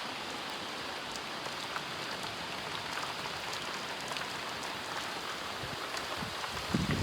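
Steady thunderstorm rain falling, a dense hiss with scattered drops ticking. A few low bumps come near the end.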